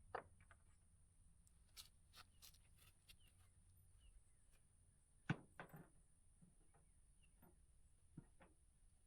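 Faint scattered clicks and knocks of bolts and a steel toolbox support being handled while it is bolted down to a pickup bed, the loudest knock about five seconds in.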